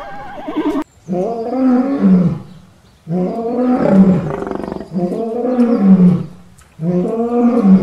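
Lion roaring in four long, loud calls, each a second and a half or so with short gaps between. Before them the tail of a horse's whinny cuts off abruptly just under a second in.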